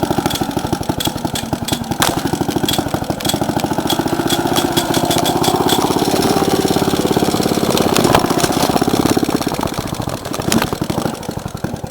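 Clinton 1.5 hp single-cylinder engine of a 1950 Bready BW walk-behind tractor running steadily after a cold start, its firing a rapid even putter. It grows a little louder in the middle and fades near the end.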